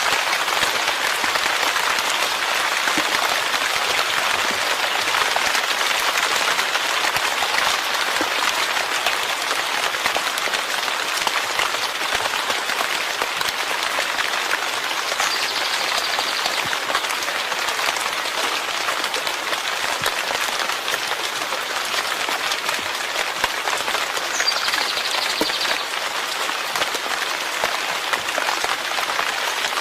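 Steady rain falling: a dense, even hiss of countless drops striking surfaces. A brief, faint high tone sounds twice, about 15 and 24 seconds in.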